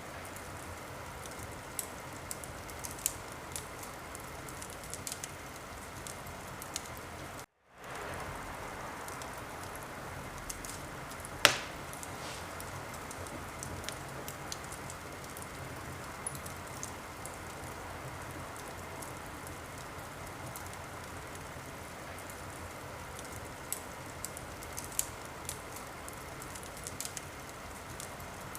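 Wood fire in a fireplace crackling: a steady hiss with scattered sharp crackles and one loud pop about eleven and a half seconds in. The sound cuts out for a moment about seven and a half seconds in.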